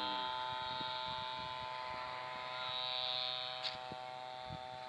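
Steady high-pitched buzz of a small two-stroke grass-trimmer engine driving a homemade model airplane in flight, at a distance, growing slightly louder around three seconds in.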